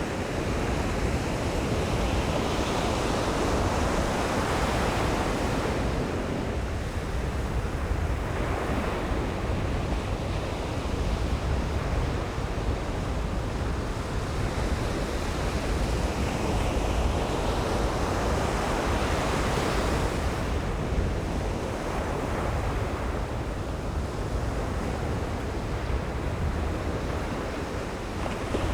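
Ocean surf breaking on a sandy beach: a continuous wash of waves that swells and eases every several seconds, with a steady low rumble of wind on the microphone underneath.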